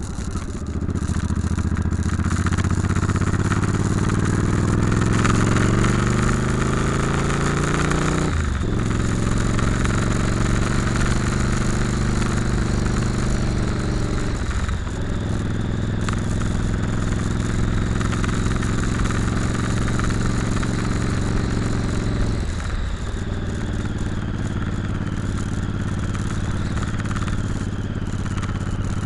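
Motorcycle engine pulling up through the gears. The pitch climbs, then drops sharply at three gear changes: about 8, 14 and 22 seconds in. After the third change it runs at a steady speed.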